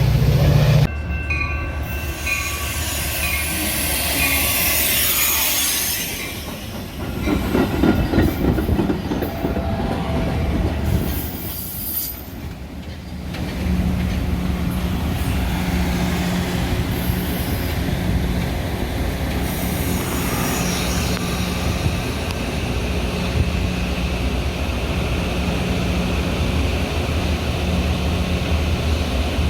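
Metra commuter train at a station: railcars moving with squealing wheels in the first half, then a steady low hum from the train for the rest.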